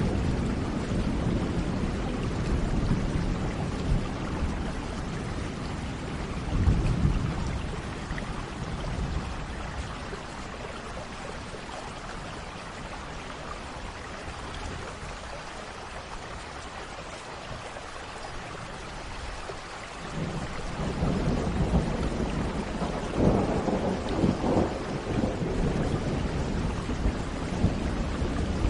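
Steady rain with rolling thunder. A low rumble dies away over the first third, the middle is just rain, and a new roll of thunder builds about two-thirds of the way through, with a few sharper cracks in it.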